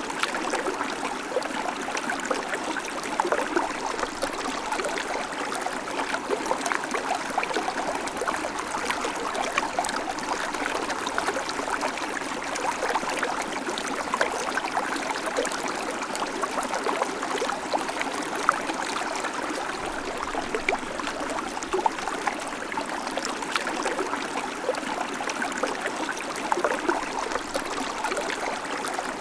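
Babbling creek: shallow water running and trickling over stones, a steady, even splashing with many small gurgles.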